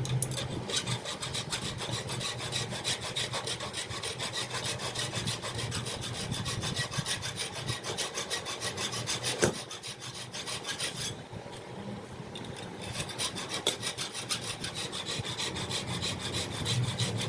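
Rapid, even rasping strokes of a hand tool worked back and forth over a part, pausing for about a second and a half near the middle before starting again.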